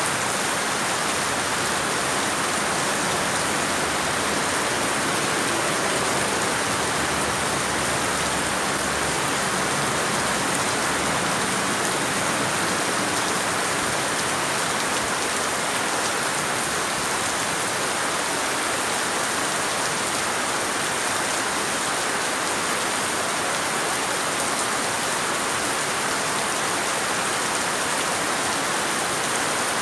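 Steady rain falling, an even unbroken hiss of drops with no let-up, and a thin steady high tone above it.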